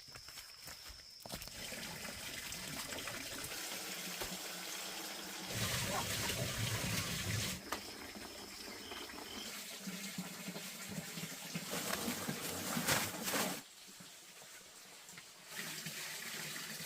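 Running water, a steady splashing hiss that changes level abruptly several times.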